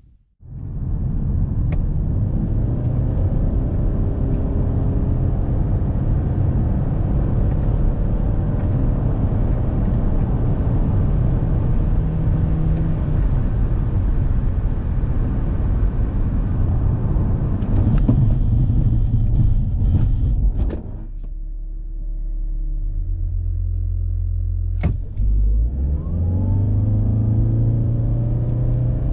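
2020 Toyota C-HR Hybrid's 1.8-litre four-cylinder petrol engine under hard acceleration, held by the CVT at a steady, near-constant drone. About 21 seconds in it drops to a lower steady hum, and near the end the revs climb again as it accelerates once more.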